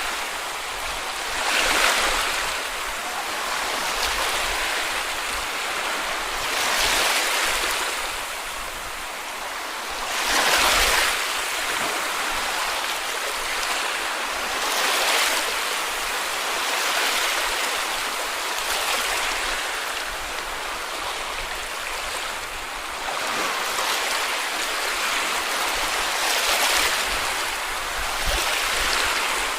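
Small sea waves breaking and washing up on a beach: a steady hiss of water with a surge every four to five seconds as each wave comes in.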